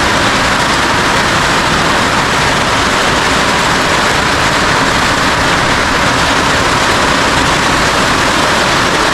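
Heavy rain falling steadily on a new roof: a loud, even hiss.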